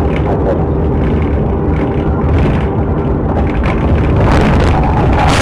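Loud vehicle rumble with engine noise, swelling into a harsher rush of noise near the end.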